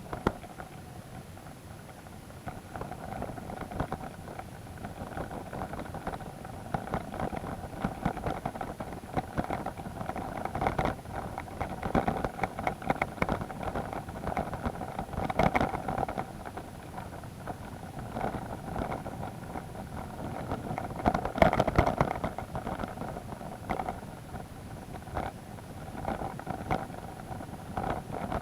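Vehicle engine running at a steady pitch while driving over a rough, muddy track, with frequent knocks and rattles from the bumps, heaviest in a few spells.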